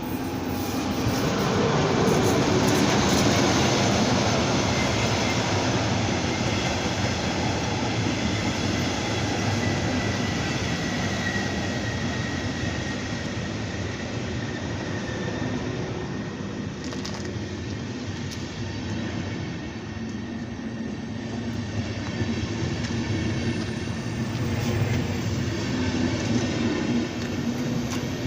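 A train running past on the rails, a continuous rumble of wheels and running gear with a faint whine. It swells about two to four seconds in and then carries on steadily.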